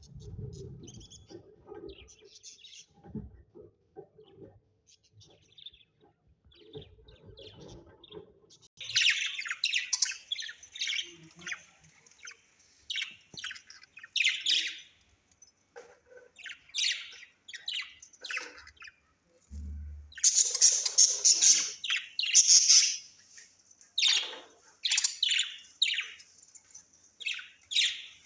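Parrots chirping and squawking in quick, dense bursts, starting about nine seconds in and loudest about two-thirds of the way through. Before that there is only faint scratching and rustling.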